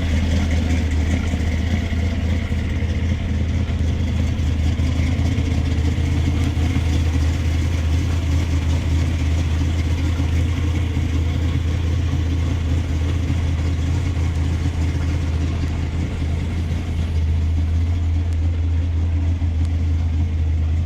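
Vehicle engine idling steadily, a deep, even drone that holds without revving.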